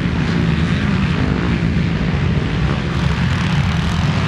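Motocross bikes racing on the track, their engines making a steady drone.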